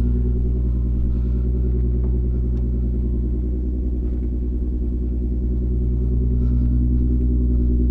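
2011 Infiniti G37S's VQ37 V6 idling cold at about 1200 RPM through a Motordyne exhaust with Fast Intentions resonated high-flow cats: a steady, deep exhaust drone, with the cold-start fast idle settling down.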